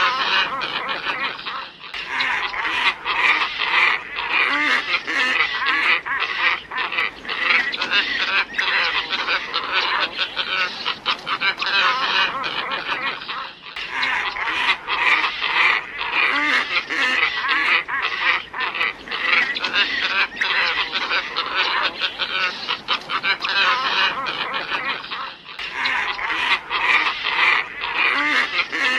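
A glossy ibis flock calling in a dense, continuous chorus, played as a bird-lure recording. The same stretch of about twelve seconds repeats, with a brief dip each time the loop restarts.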